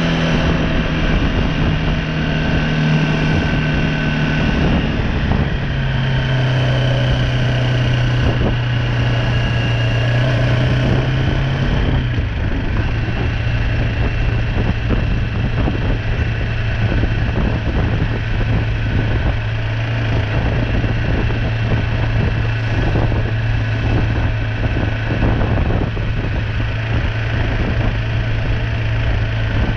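BMW G310R motorcycle's single-cylinder engine running as the bike is ridden. The engine note drops in pitch about five seconds in and again about twelve seconds in, then holds steady.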